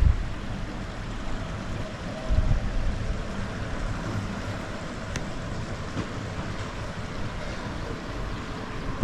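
Wind buffeting the microphone over a steady low outdoor rumble, with a stronger gust about two and a half seconds in.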